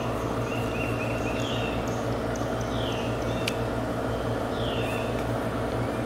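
A bird calling repeatedly, short falling chirps about every second and a half, over a steady low machine hum. A single light click about three and a half seconds in.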